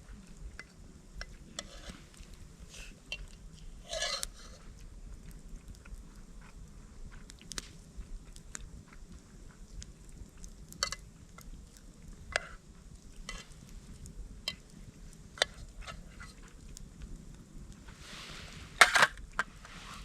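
Camp cookware and utensils knocking and clinking: scattered small clicks, a short rustle about four seconds in, and a louder clatter just before the end.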